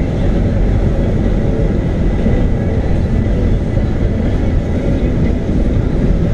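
Steady road and engine noise heard from inside a moving car's cabin, a low, even rumble that does not change.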